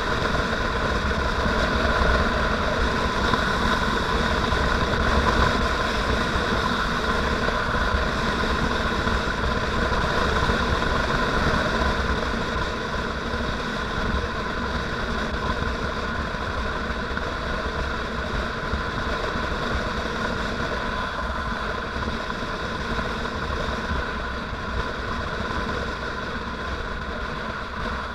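Motorcycle engine running steadily while riding, with a strong low rumble; it eases off slightly about halfway through.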